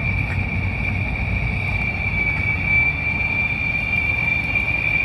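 Cicadas (chicharras) calling in a steady, unbroken high-pitched drone, over a low rumble.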